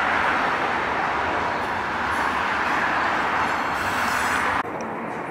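Commuter train running along the rails: a steady, loud rushing noise that drops suddenly to a quieter, duller rumble about four and a half seconds in.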